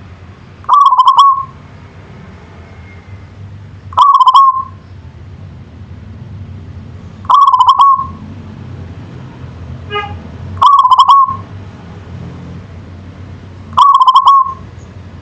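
Zebra dove cooing: five short, rapidly trilled phrases, one about every three seconds.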